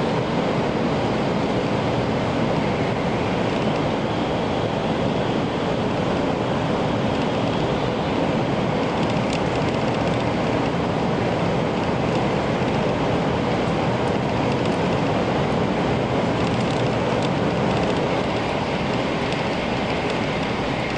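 Tokaido Shinkansen train running at speed through a tunnel, heard from inside the passenger cabin: a loud, steady rushing noise of wheels on rail and air, with a few faint clicks in the second half.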